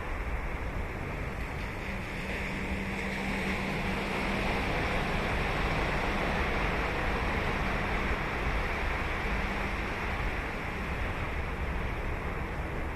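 Ocean surf breaking and washing up the beach, swelling to its loudest in the middle and easing off toward the end. A low steady hum runs underneath, strongest in the first few seconds.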